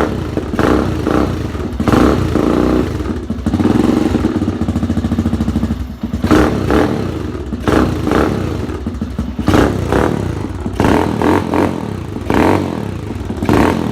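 Baja 250 motorcycle engine running just after a cold start following winter storage, its revs rising and falling repeatedly as the throttle is worked.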